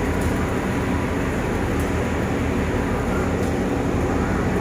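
Steady low rumble of a diesel locomotive idling while its train stands at the station.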